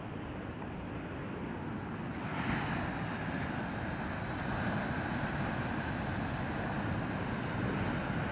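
Heavy ocean surf driven by Hurricane Earl, with wind. About two seconds in, a wave breaks and the rush of water grows louder and stays up.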